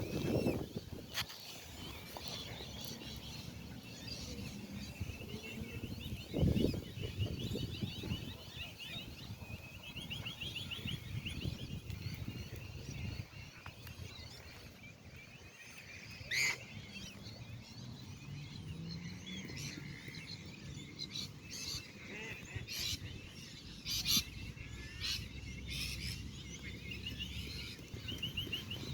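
Wetland birds calling in short bursts of rapid chattering trills, with scattered sharp clicks and a low rumble underneath.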